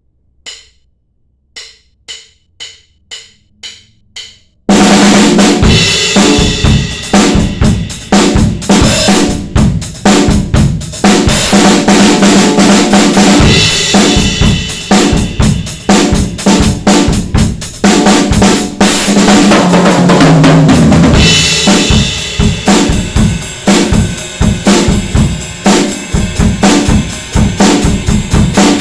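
Sound Percussion Labs Unity 2 drum kit with Soultone NOA cymbals: light, sharp ticks about twice a second count in, then the full kit comes in loud about five seconds in and plays a steady groove of kick drum, snare and cymbals.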